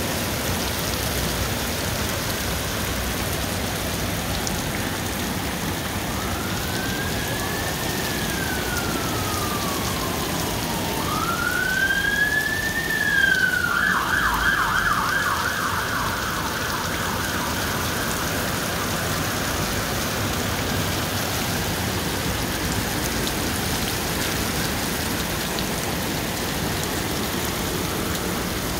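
Heavy rain falling steadily onto a flooded road surface, a continuous hiss of drops splashing into standing water. About six seconds in, an emergency vehicle siren sounds: two slow rising and falling wails, then a fast warbling yelp, loudest near the middle and gone by about sixteen seconds in.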